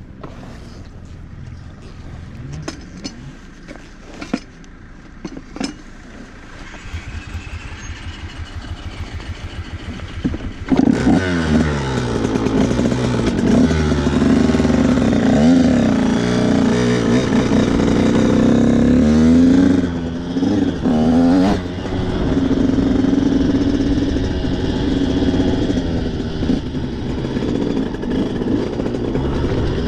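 Enduro motorcycle engine, a KTM EXC, at first low with a few clicks, then much louder about a third of the way in. It is revved up and down, then runs steadily as the bike rides off.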